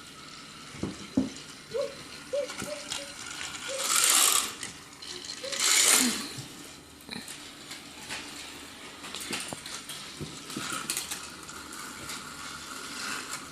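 Plastic Trackmaster toy trains and track pieces being handled, with scattered clicks and rattles, and two louder rustling bursts about four and six seconds in.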